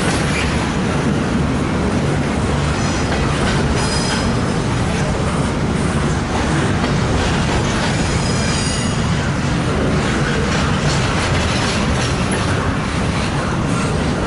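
Freight train rolling past close by: a steady, loud rumble of wheels on rail with clickety-clack, and faint, brief high-pitched wheel squeals a couple of times.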